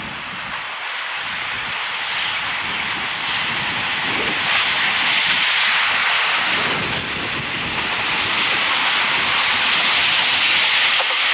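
Diesel express trains running under power, a steady rushing engine noise that grows steadily louder.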